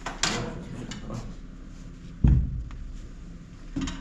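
Handling noises: a brief scuffing sound near the start, a loud dull thump a little past halfway, and a smaller knock near the end, over a low steady hum.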